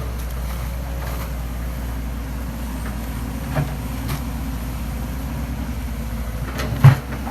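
Excavator engine running steadily under load, with a few short knocks as the machine works, the loudest a sharp thump near the end.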